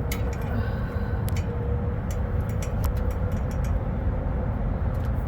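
Scattered sharp metallic clicks and taps from a socket and extension being worked onto an exhaust-flange nut, over a steady low rumble.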